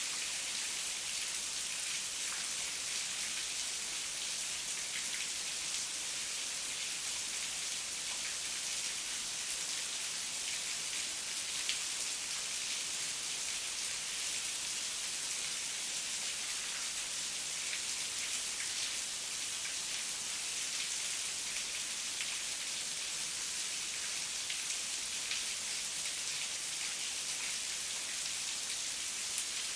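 Heavy rain falling steadily, a dense even hiss with scattered individual drops ticking on surfaces.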